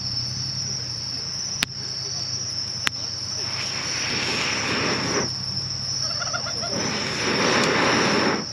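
Insects chirring steadily in a high, even drone, with two sharp clicks early on and two spells of rushing noise, each about two seconds long.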